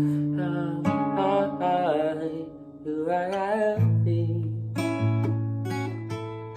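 Guitar chords played under a wordless singing voice that wavers in pitch for the first few seconds. The voice then drops out and the guitar goes on alone, re-strummed about four seconds in, with repeated strokes toward the end.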